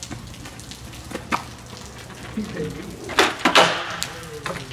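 Skateboard clacking against concrete: a few sharp wooden knocks, the loudest pair about three seconds in, over the steady hiss of rain.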